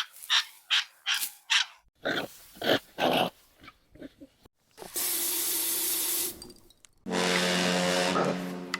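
A dog barking in a quick run of short barks, about two or three a second, over the first few seconds; then a burst of hiss and, near the end, a held buzzing tone.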